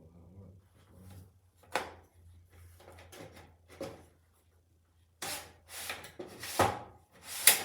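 Handling noise from a Milwaukee M18 Rocket tower light being set up: a sharp click about two seconds in and another near four seconds, then a run of louder scrapes and knocks ending in a sharp snap near the end, as the carrying handle is slid and the stand is worked.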